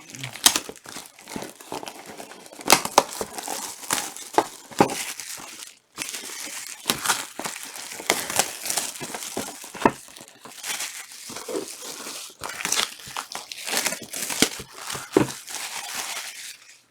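Foil trading-card pack wrappers being torn open and crumpled: irregular crinkling and tearing with sharp crackles, pausing briefly about six seconds in.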